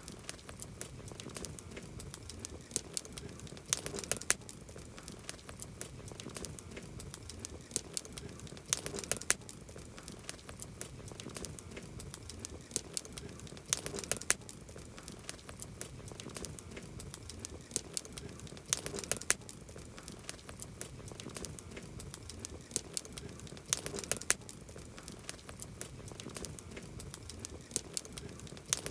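Wood campfire crackling, with a steady run of sharp pops and snaps over a low hiss, and a cluster of louder pops about every five seconds.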